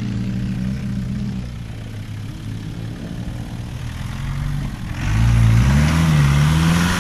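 Off-road 4x4 engine running steadily, then easing off. About five seconds in it revs hard and much louder, its pitch climbing steadily, with a broad rush of noise alongside.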